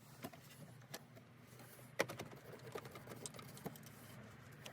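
Scattered light clicks and taps of hands and tools working on car cooling-system parts, with one sharper knock about two seconds in.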